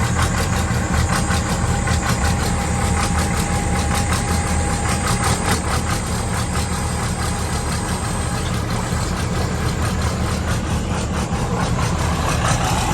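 Truck engine running steadily with a regular pulsing beat, a thin high whine riding over it that stops about two-thirds of the way in.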